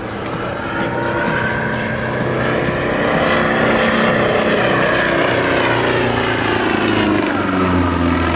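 Propeller-driven light aircraft flying past, its engine and propeller drone rising in pitch over the first few seconds and falling again near the end.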